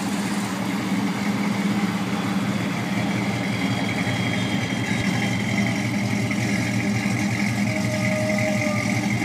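1968 Dodge Charger's 440 cubic inch V8 idling steadily through Flowmaster 40 series mufflers, a deep, even exhaust note with no revving.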